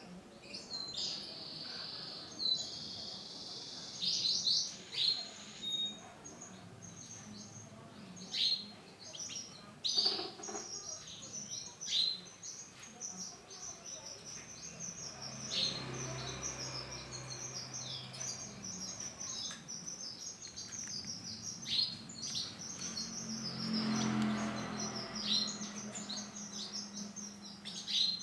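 Male canary singing: a long, continuous run of rapid chirps and trills, opening with a few held whistled notes in the first few seconds.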